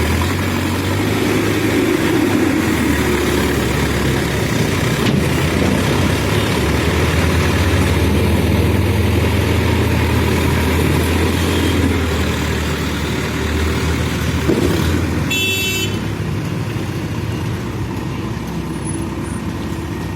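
Backhoe loader's diesel engine running steadily, its level rising and easing a little as it works. A short, high-pitched horn-like beep sounds about fifteen seconds in.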